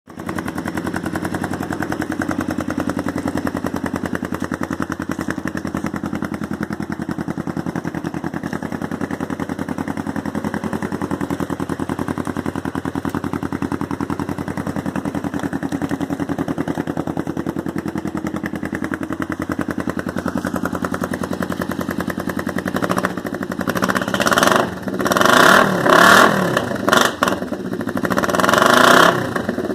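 Kawasaki Vulcan 500 parallel-twin engine idling steadily through short aftermarket Emgo shorty mufflers, then revved in several quick throttle blips over the last six seconds.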